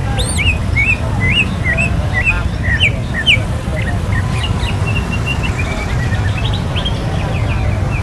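Caged songbirds chirping and whistling, many short sliding notes overlapping, over a steady low rumble of street noise.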